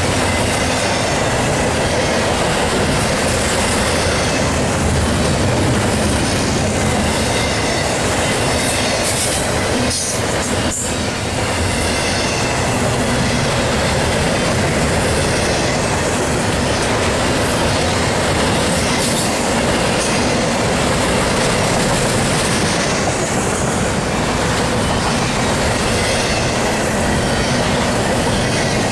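Double-stack container train cars rolling past, a loud, steady rumble and rattle of steel wheels on rail with a faint high steady squeal, dipping briefly about ten seconds in.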